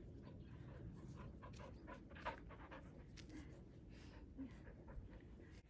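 A dog panting faintly, quick repeated breaths at about three to four a second.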